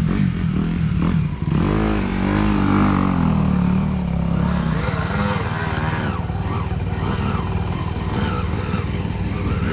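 Dirt bike engine revving on and off the throttle, its pitch rising and falling a couple of seconds in, then running unevenly at lower revs.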